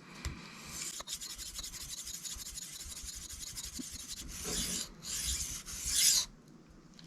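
Steel knife blade scraping on a Shapton Kuromaku whetstone, working the belly of the edge to raise a burr. About three seconds of quick, short scrubbing strokes come first, then two longer, louder strokes before it stops a second before the end.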